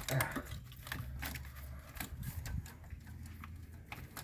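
Scattered clicks and light knocks of hand work on an engine bay's parts and wiring, over a low steady hum.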